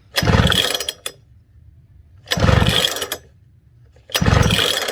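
Small engine's recoil starter pulled three times, about two seconds apart, each pull spinning the engine over briefly with a rapid pulsing whir. It does not fire, because the spark plug is out of the engine and grounded against metal to check it for spark.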